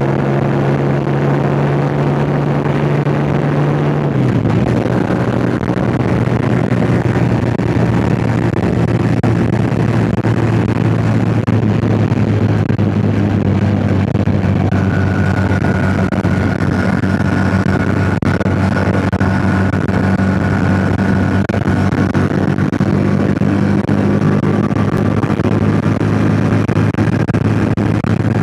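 Yamaha MT-07's 689 cc parallel-twin engine running under way, with wind noise on the microphone. About four seconds in the engine note drops, then holds a steady pitch.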